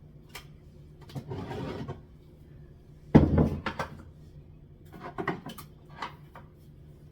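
Things being moved about and set down in a kitchen cupboard: a rustle, then one loud thud about three seconds in, followed by several lighter knocks.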